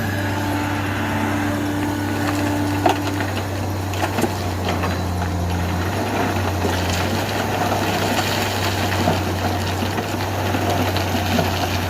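Heavy earthmoving equipment's diesel engine running steadily under load, with a few sharp knocks near the three- and four-second marks.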